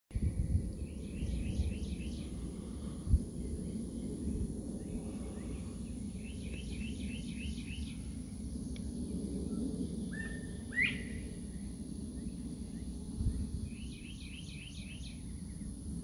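Birds singing: a short phrase of quick repeated notes comes three times, and a single sharp rising call sounds about eleven seconds in, over a steady low background rumble and a thin high hiss. A brief low thump about three seconds in is the loudest sound.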